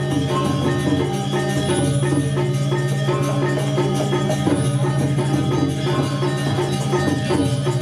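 Balinese gamelan playing: tuned metal percussion and drums in a dense, steady rhythm that keeps going without pause.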